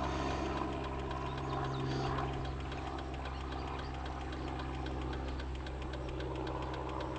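A motor or engine running steadily, a low hum with a fast light ticking.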